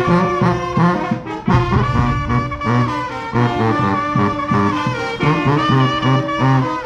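Junkanoo band playing live: brass horns carry a melody in held, stacked notes over a steady, pounding drum beat.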